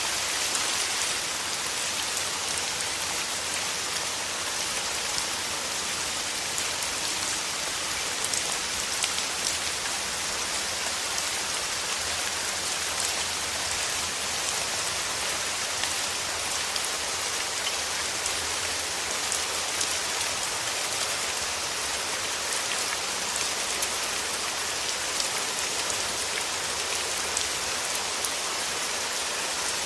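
Steady rain falling: a dense, even hiss of drops with fine ticks of single drops scattered through it.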